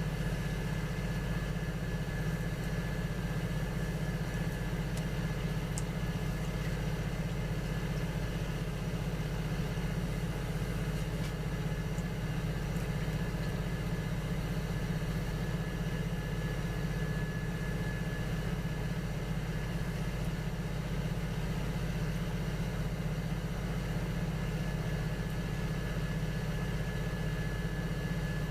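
Electric potter's wheel running steadily: a constant low motor hum with a faint high whine.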